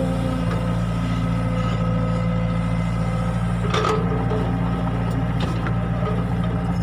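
Excavator diesel engine running steadily, with a single sharp knock about four seconds in.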